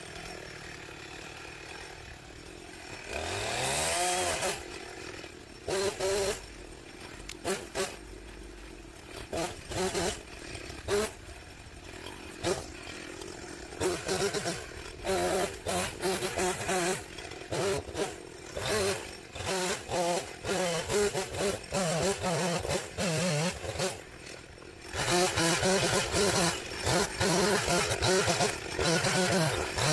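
Small two-stroke engine, most likely a chainsaw, revving up about three seconds in, then revved in many short bursts over an idle, and running continuously at high revs from about 25 seconds in.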